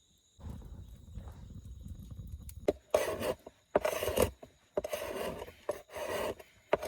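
Wood being scraped with a blade in repeated strokes, about one a second, starting about three seconds in, to make tinder for a fire. Before the strokes there is a low rumble of handling.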